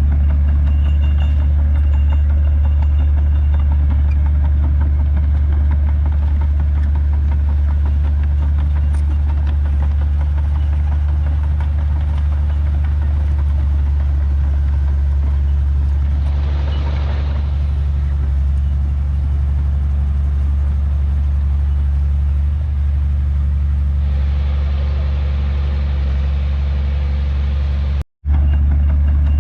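Heavy diesel engine of earthmoving machinery running steadily with a low, even hum. There is a brief swell of noise about halfway through and more noise over the last few seconds, and the sound drops out for a moment just before the end.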